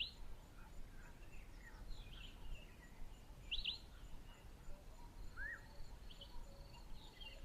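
Faint wild birdsong: scattered short chirps and whistles from several birds, with a quick, high, pulsing trill in the last two seconds or so.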